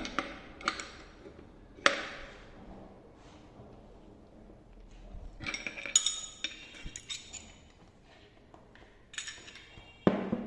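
Metal tools being handled: a series of sharp clinks and knocks, some ringing briefly, in scattered clusters.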